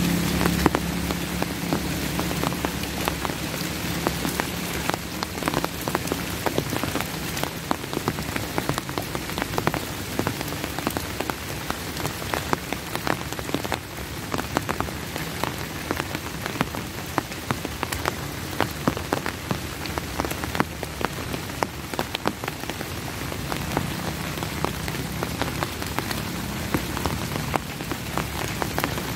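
Steady rain falling, with many sharp individual drop hits close by. A faint low hum fades out in the first few seconds and returns near the end.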